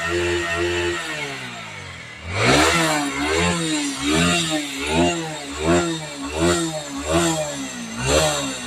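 Bajaj Pulsar NS160's single-cylinder engine revved again and again in quick throttle blips, each one rising and falling in pitch, a little over one a second. Before the blips a steady pulsing drone slides down in pitch and fades.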